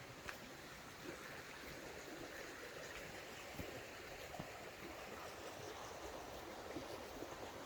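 Steady, faint wash of water, with scattered faint ticks and crackles over it.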